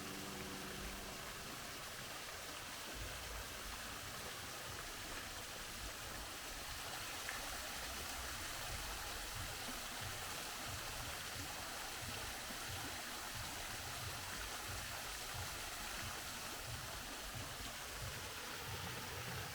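Steady rush of a waterfall's falling water, an even noise without a break. A few held musical tones fade out in the first second.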